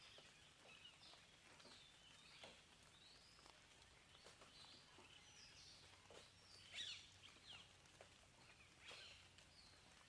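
Faint birdsong: several birds giving short chirps and quick whistled notes, with the loudest call about two-thirds of the way through.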